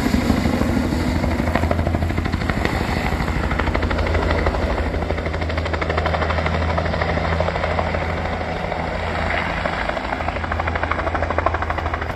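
Bell light turbine helicopter running: a fast, even rotor chop over a steady low engine drone, holding at much the same level throughout.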